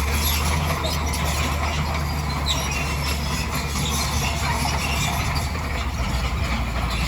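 Bulldozer at work: its diesel engine runs steadily under a constant low rumble, with scattered high-pitched squeaks and grinding from the crawler tracks over it.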